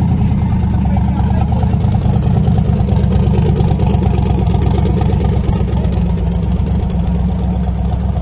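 Loud car engine running steadily with a deep, rough low note.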